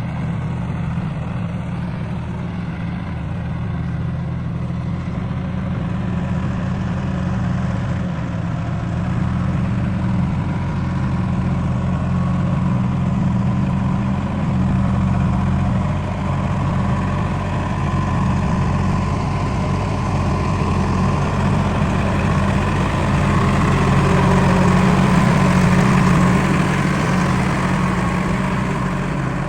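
Heavy diesel engine running steadily at low revs, growing a little louder near the end.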